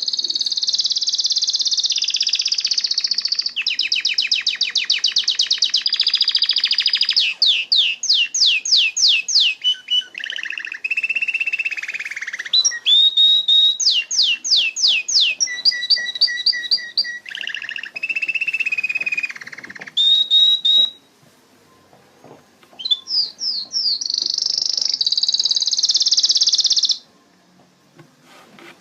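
Domestic canary singing, running through a string of varied phrases: fast trills, rapid series of up-slurred whistled notes and a lower warbling roll. The song breaks off briefly about two-thirds of the way through and again near the end.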